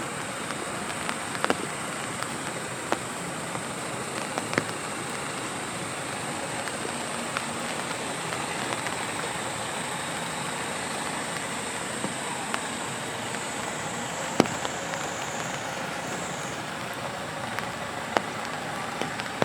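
Steady rain falling on a city street, with scattered sharp taps of heavier drops. A thin high steady whine sits over it and fades out about three-quarters of the way through.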